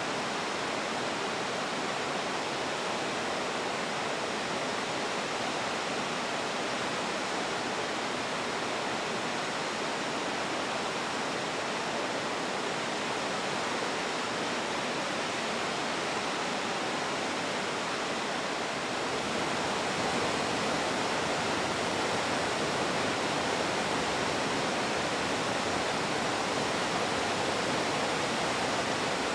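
A waterfall's steady rushing water, a dense even roar of falling water that gets slightly louder about two-thirds of the way through.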